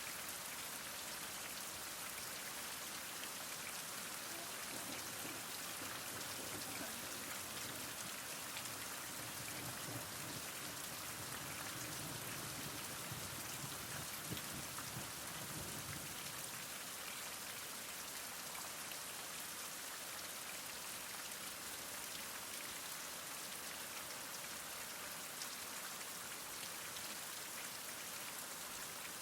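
Heavy rain falling steadily, an even hiss of many drops on surfaces, with a faint low rumble swelling and fading about halfway through.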